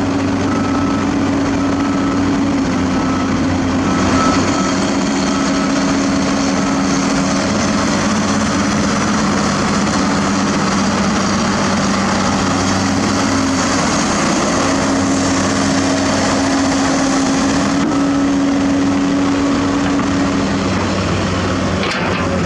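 Heavy diesel construction machinery running steadily under load, a continuous engine hum with hiss above it. A faint repeating beep sounds during the first few seconds.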